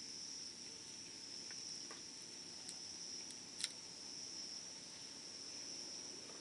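Wood campfire crackling, with scattered small pops and one sharp pop about three and a half seconds in, over a steady high-pitched trill of insects.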